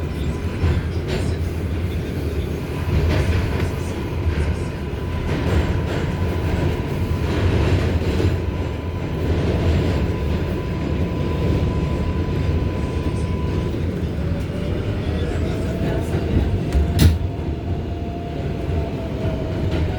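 R188 subway car running along the track, heard from inside: a steady low rumble of wheels on rail with a thin high whine that stops about two-thirds of the way through. A lower whine then rises and levels off, and there is one sharp click near the end.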